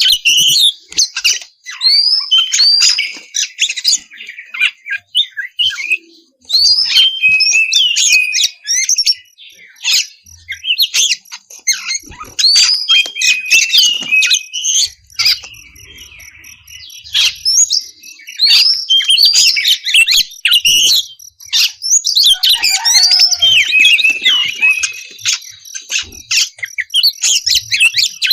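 Oriental magpie-robin (kacer) singing a loud, varied song of rising and falling whistles and chattering notes, in bursts with short pauses.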